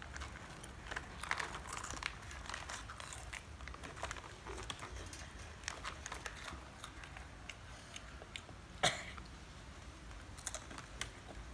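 Small, scattered crackles and clicks of a crunchy tomato snack being chewed and its packet handled, with one sharper click about nine seconds in.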